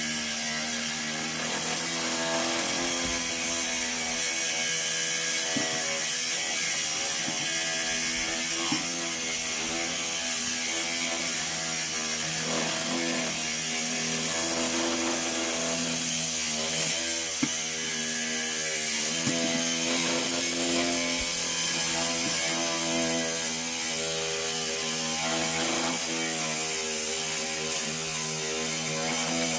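A motor running steadily with a low pitched hum that wavers slightly, over a strong hiss.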